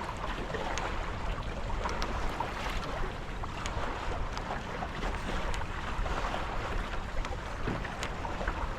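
Water rushing and splashing past the hulls of a Tornado racing catamaran sailing in light wind, with a steady low rumble of wind on the microphone and a few faint ticks.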